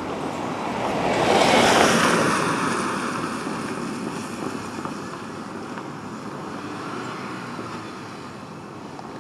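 A vehicle passing by on the street, its rushing tyre and engine noise swelling to a peak about a second and a half in, then fading away slowly.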